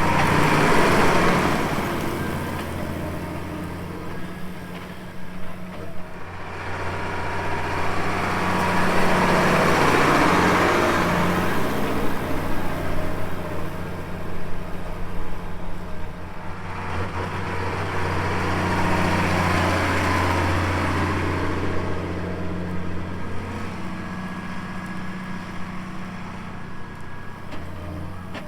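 Tractor engine running at a steady drone, with a rushing noise that swells and fades about every ten seconds.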